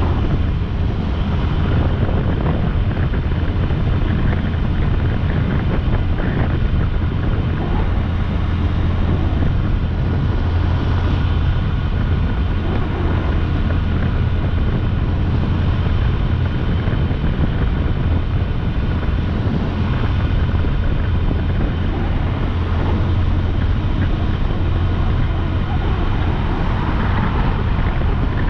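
Motorcycle engine running at a steady cruising speed, a constant low hum, with wind rushing over the microphone.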